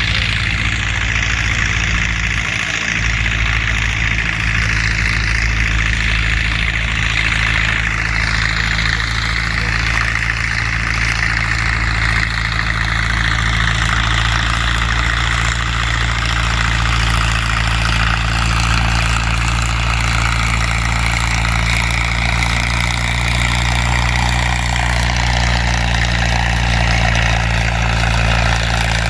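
Antique farm tractor's engine running steadily and loudly, with an even engine note that holds throughout.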